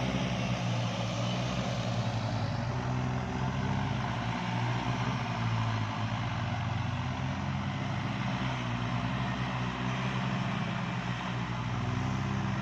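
Kubota farm tractor's diesel engine running steadily.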